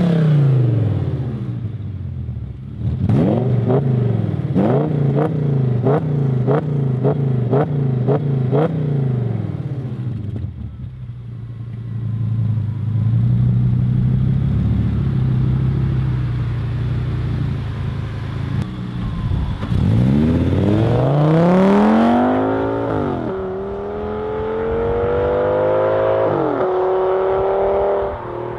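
Audi S8's 5.2-litre V10 through a custom exhaust: the engine note falls away at the start, then about eight quick throttle blips with sharp cracks at their peaks, then a steady idle. Near the end it accelerates hard, pitch climbing through two upshifts.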